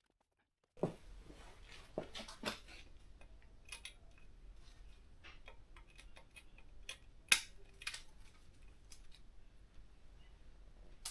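Scattered sharp clicks and light knocks of hand tools and small parts being handled while stripping a motorcycle frame, the loudest a single sharp click about seven seconds in, over a low steady hum. The sounds start just under a second in, after a moment of total silence.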